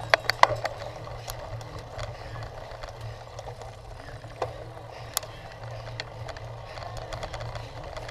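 Cyclocross bike rattling and clicking as it is ridden over rough ground, with a cluster of sharp clicks about half a second in, over a steady low rumble.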